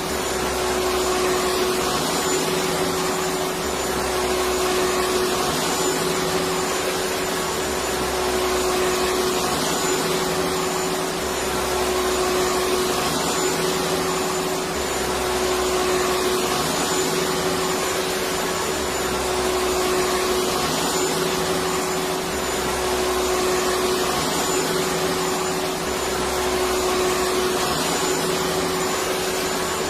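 Electric vacuum cleaner running steadily: a continuous rushing whoosh over a constant motor hum, with a low throb that swells and fades every few seconds.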